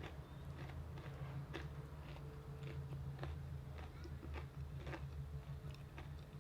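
Close-up crunching and chewing of crispy fried chicken, sharp crunches coming about two a second, over a steady low hum.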